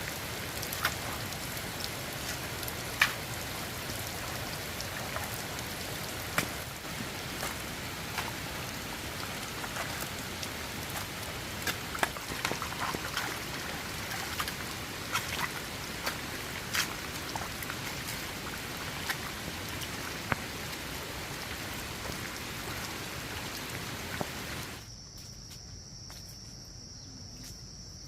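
Heavy rain falling, with many separate drops striking close by as sharp ticks. Near the end it cuts off suddenly to a quieter background with a steady high insect trill, like crickets.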